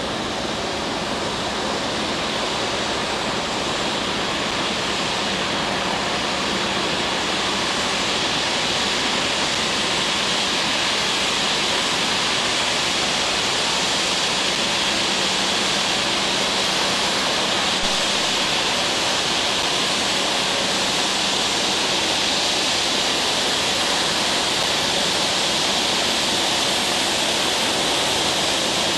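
Jet airliner engines running on the ground: a loud, steady rushing whoosh with a faint low hum underneath, growing slightly louder over the first few seconds.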